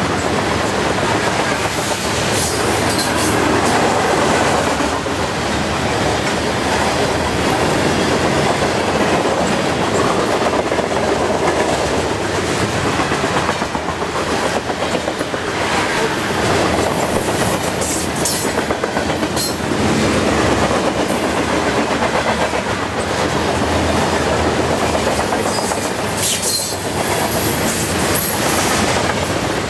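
Covered grain hopper cars of a long freight train rolling past at speed, their steel wheels making a steady, loud rolling noise on the rails. Short high-pitched wheel squeals come through now and then.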